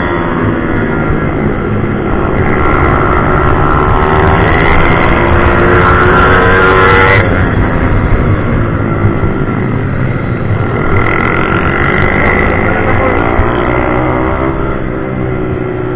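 Pit bike's single-cylinder four-stroke engine revving hard on track, its pitch climbing and then dropping again as the rider shifts and rolls off. There is a sharp drop about seven seconds in and another climb a few seconds later.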